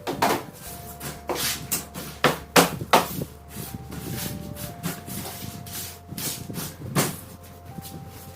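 A series of irregular sharp knocks and taps from hand work on an air-conditioner filter screen, with the loudest strikes clustered about two to three seconds in and another near seven seconds.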